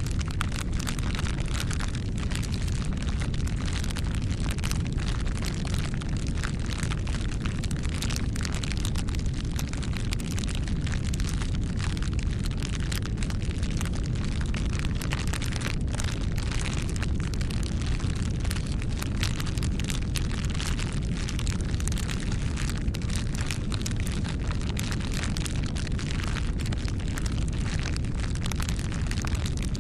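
Campfire burning: a steady low rumble of flames with frequent sharp crackles and pops of burning wood.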